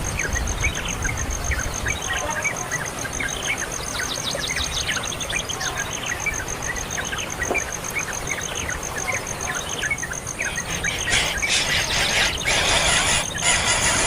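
Birds calling, with many short, quick falling chirps over a steady high pulsing trill. About eleven seconds in, a louder, harsh, rasping calling starts.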